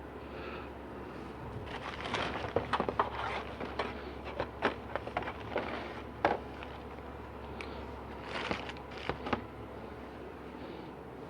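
Small parts and seals being handled on a workbench: irregular clicks, taps and rustling, busiest in the middle, over a steady low hum.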